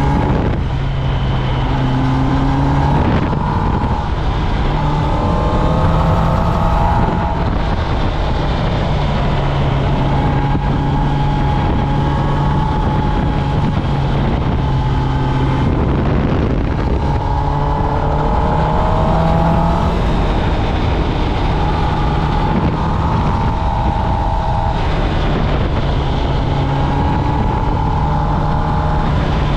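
Kawasaki Ninja ZX-10R's inline-four engine running through its stock exhaust while riding. Its pitch climbs twice as the bike accelerates, with short breaks in the tone where gears are changed.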